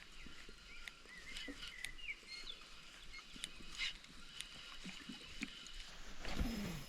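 Small birds chirping faintly in quiet forest ambience, with short rising and falling calls scattered throughout. A louder rush of noise comes in near the end.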